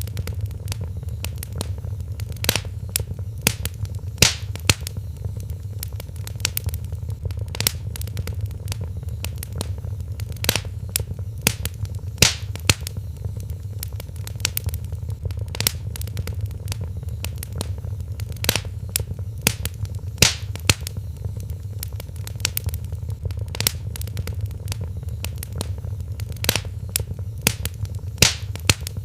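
Wood fire in a fireplace crackling, with irregular sharp pops, some louder than others, over a steady low rumble.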